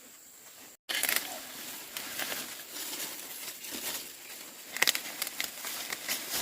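Irregular rustling and crinkling with sharp snaps, loudest about a second in and again near five seconds.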